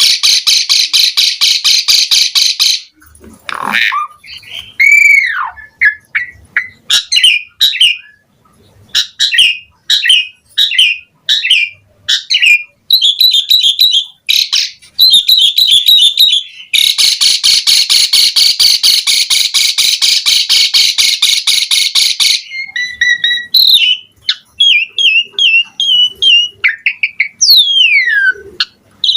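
Asian pied starling (jalak suren) singing: long runs of rapid, harsh chattering alternate with many short whistled notes and slurred up-and-down glides.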